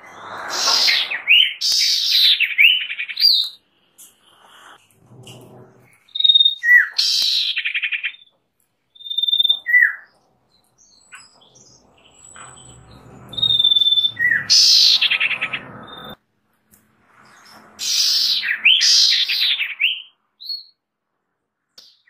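A bird singing in separate phrases of a few seconds each, mixing clear whistled notes with quick rising and falling trills, repeated about five times with short pauses in between.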